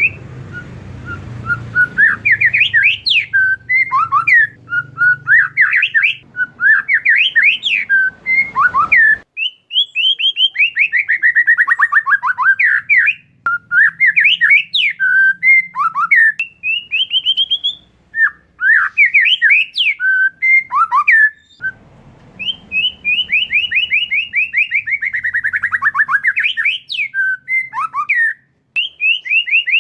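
Oriental magpie-robin (kacer) singing a loud, unbroken song of rapid chattering and sweeping whistled notes, with fast trills that slide down in pitch and runs of quick repeated notes.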